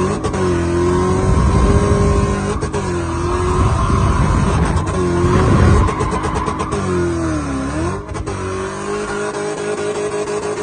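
Swapped 4.0-litre V8 in a BMW E30, heard from inside the cabin, revving hard with its pitch rising and falling several times. Near the end it drops low, then holds a steady pitch.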